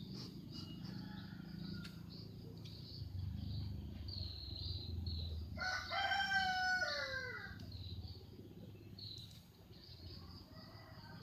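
A rooster crowing once, about halfway through: one call of about two seconds that falls in pitch at the end. A steady high-pitched buzz and a low rumble run beneath it.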